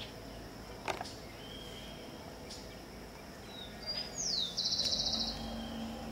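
Birds calling: short whistled notes, then about four seconds in a loud falling whistle followed by a buzzy trill. From about five seconds a low steady hum sets in, fitting a carpenter bee flying close to the microphone.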